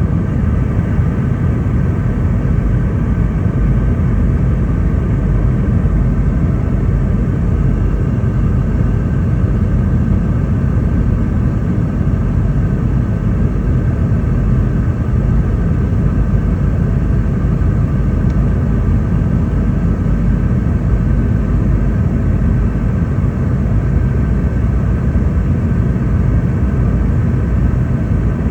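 Steady cabin noise inside a Boeing 717-200: a deep, even rumble of airflow and the jet's rear-mounted Rolls-Royce BR715 engines, with faint steady whining tones above it.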